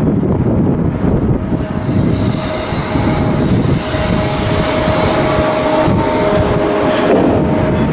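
Steady, loud mechanical din of shipyard work, with a constant hum running through it.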